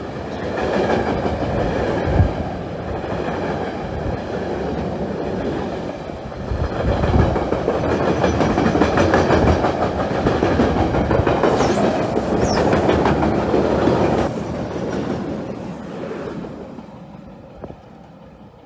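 Loaded log-carrying freight wagons rolling past close by, wheels clattering rhythmically over the rails, with a couple of brief high wheel squeals about twelve seconds in. The sound fades as the end of the train draws away near the end.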